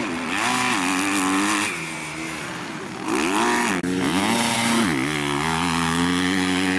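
250 cc motocross bikes' engines revving hard, the pitch climbing and dropping again and again as they shift gears, with one held at a steady high rev near the end.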